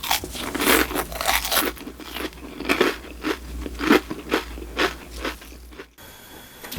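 Close-miked crunchy chewing and biting of food, a run of crisp crunches about two a second, cutting off abruptly near the end.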